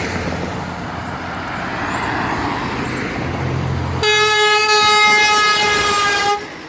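Truck traffic rumbling past, then about four seconds in a truck's air horn gives one loud blast of a little over two seconds on a single steady note, cutting off sharply.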